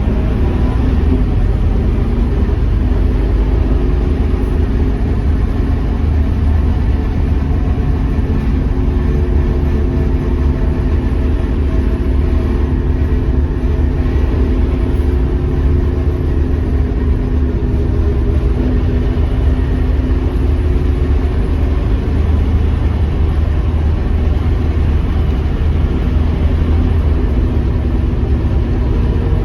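Scania K230UB bus's diesel engine running steadily, a deep rumble with a hum of engine tones that drift slightly as its speed changes.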